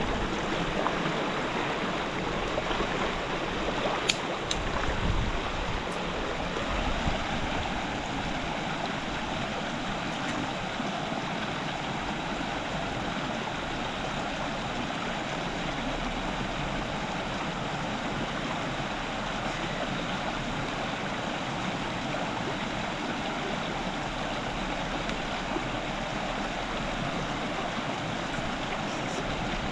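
River water rushing steadily, with a sharp click about four seconds in.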